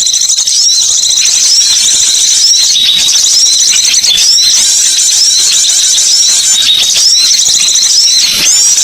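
A small songbird's recorded lure call: a loud, unbroken stream of shrill, high chirps and twitters, with repeated hooked notes a few times a second.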